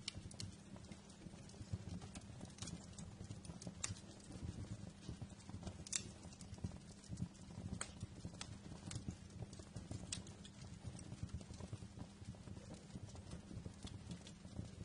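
Wood fire crackling in a fireplace: irregular sharp pops and snaps over a low, steady rumble of burning, with the loudest pop about six seconds in.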